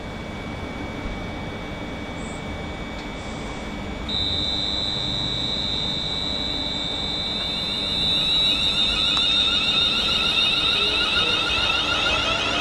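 A train approaching along the line: a steady high-pitched whine comes in sharply about four seconds in, and the train's running sound grows louder toward the end.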